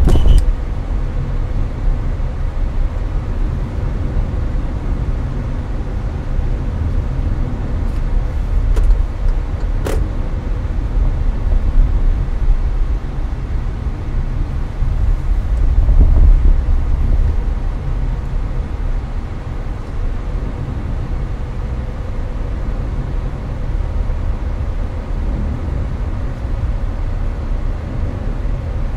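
Hyundai Avante (Elantra) cruising on a highway, heard from inside the cabin: a steady low road and tyre rumble with the air-conditioner fan's hiss over it. A few faint ticks come about eight to ten seconds in.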